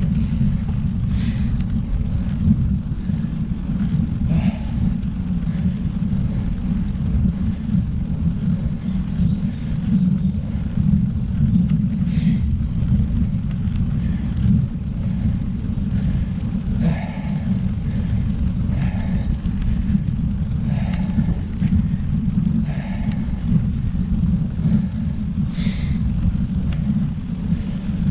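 Wind buffeting the microphone of a camera on a moving road bike: a loud, steady low rumble, with a few faint short noises on top.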